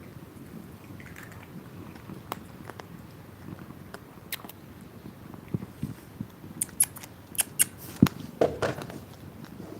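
Cats crunching dry kibble: scattered crisp crunches, then a quick run of sharp clicks and a thump about eight seconds in.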